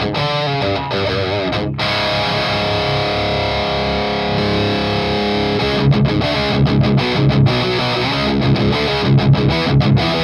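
High-gain distorted electric guitar played through a mic'd guitar cabinet. A quick run of notes opens, then a chord rings out for about four seconds, then a choppy, stop-start low riff.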